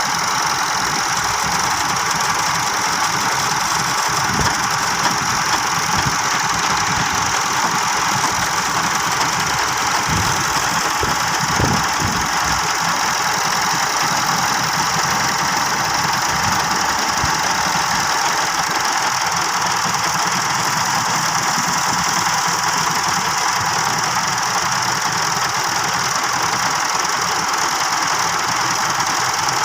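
Massey Ferguson 375 tractor's Perkins diesel engine running steadily under load while pulling a heavily loaded trolley, with a few low knocks a few seconds in.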